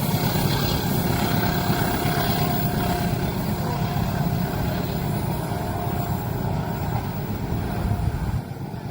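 A train passing, a steady low rumble that drops off sharply near the end.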